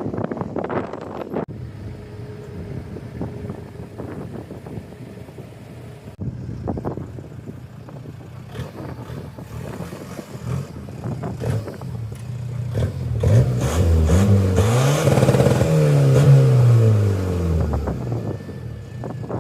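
Car engines running steadily; about two-thirds of the way in, a car revs and accelerates, its engine note climbing and then falling away over a few seconds, the loudest sound here.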